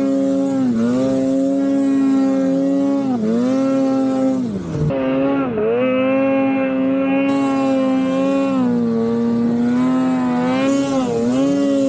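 Snowmobile engine running hard at a steady high pitch, with brief dips and recoveries about five times as the throttle is eased and reapplied.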